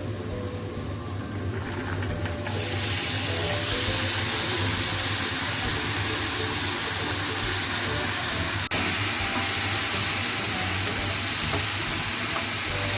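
Chopped beetroot sizzling in hot oil with browned onions in a pan. The hiss jumps sharply louder about two and a half seconds in, as the moist beetroot hits the hot oil, and then stays steady.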